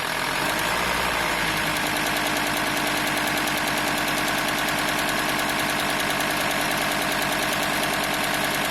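VW T4 2.5 TDI five-cylinder diesel running steadily, with a fast, even rattle from the serpentine belt area that the owner suspects comes from the belt tensioner pulley.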